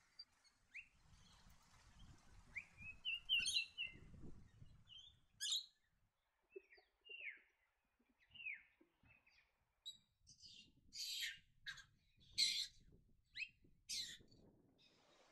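Blue-faced honeyeaters calling: a string of short, sharp calls, several sliding down in pitch, with the loudest high notes coming in quick succession in the last few seconds.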